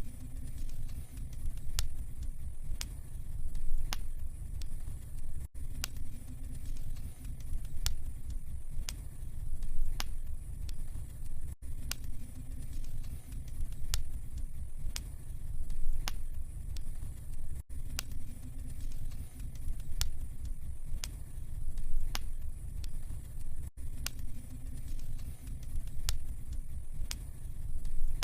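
Wood fire burning in a fireplace, crackling with sharp pops over a low rumble. The same stretch of sound repeats about every six seconds, as a loop.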